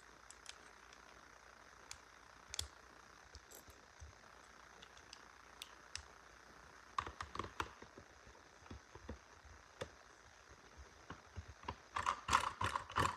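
Light clicks and small rattles of hard little parts being handled, scattered at first, then a short cluster about halfway through and a denser run of clicking near the end, over a faint steady hiss.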